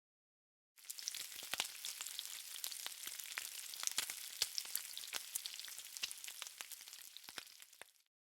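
Dense crackling hiss full of small sharp pops, starting abruptly about a second in and fading out just before the end.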